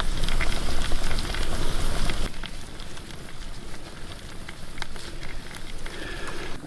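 Crackling and sizzling from a campfire and rock-and-stone oven with a turkey roasting in it. It is loud for about two seconds, then drops and goes on quieter with scattered crackles.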